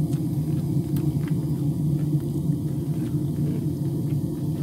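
A steady low rumble throughout, with faint crisp clicks of someone chewing battered fried fish.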